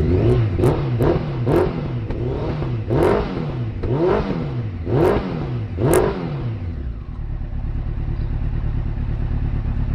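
Honda CBR900RR Fireblade inline-four engine being blipped, several quick revs that rise and fall, then settling to a steady idle for the last few seconds. The engine is still warming up and not yet running cleanly.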